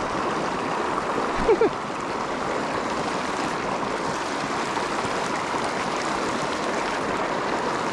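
Small mountain creek rushing steadily over rocks, a constant even wash of water. A brief short vocal sound comes about a second and a half in.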